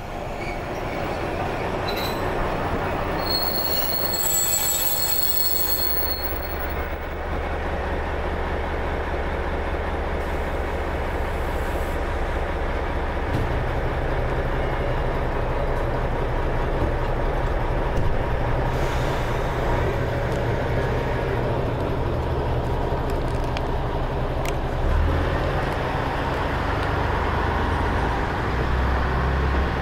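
A Kishū Railway diesel railcar pulling into the platform, with a brief high squeal a few seconds in as it slows. Its engine then idles while the train stands at the station, and it changes pitch near the end as the train pulls away.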